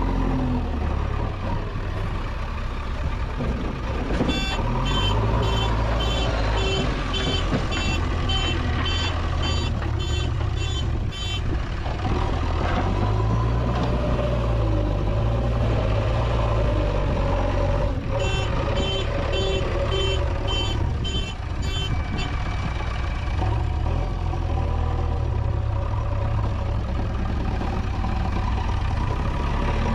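Diesel engine of a JCB 3DX backhoe loader running under load, rising and falling in pitch. A reversing alarm beeps at about two beeps a second in two spells, one from about four seconds in and one from about eighteen seconds in.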